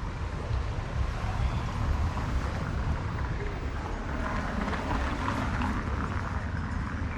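City street traffic ambience: a steady low rumble of passing vehicles, with a busier stretch of mid-range noise about four to six seconds in.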